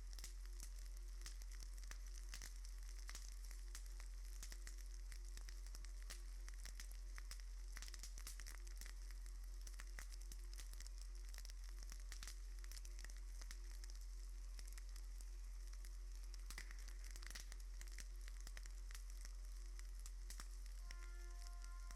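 Faint steady crackling hiss, thick with tiny clicks and pops, over a constant low hum. A few sustained musical notes come in near the end.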